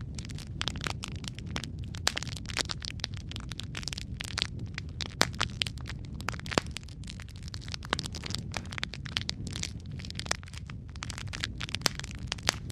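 Wood fire crackling steadily: many sharp, irregular pops and snaps, several a second, over a low steady rumble of the flames.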